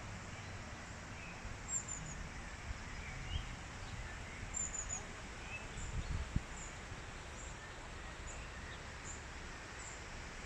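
Small birds chirping outdoors: thin, high calls repeated about once a second, some in quick runs of three, with fainter lower chirps, over a low wind rumble and a couple of dull thumps about six seconds in.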